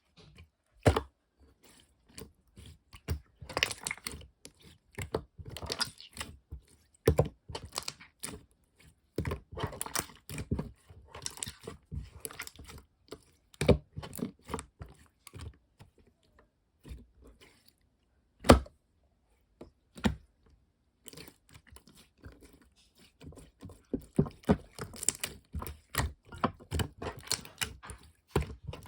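Slime being squeezed, stretched and poked by hand: irregular sticky clicks and crackling pops in clusters, with a couple of short pauses.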